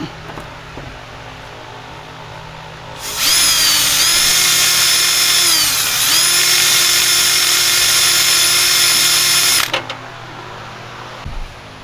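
Electric drill running hard for about six and a half seconds, starting about three seconds in with a steady high whine. Its pitch sags midway as the motor slows under load, then recovers before it stops.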